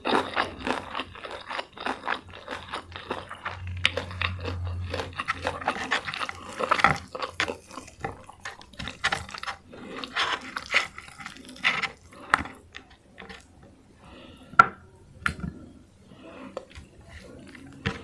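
Close-miked chewing and crunching of crispy food, a dense run of crackles and wet mouth clicks that thins out in the second half, with one sharp click about two-thirds of the way in.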